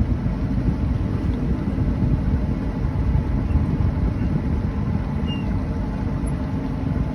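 A 26-foot Rendezvous boat underway at low speed, making a steady low rumble with no changes.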